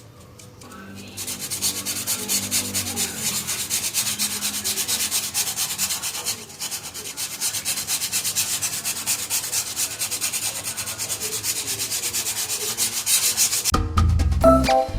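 Rapid, steady back-and-forth sanding strokes on a styrofoam piece. They start about a second in and stop shortly before the end.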